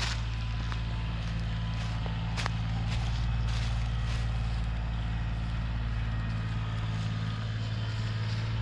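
Heavy equipment engine idling steadily, with a few short sharp clicks over it.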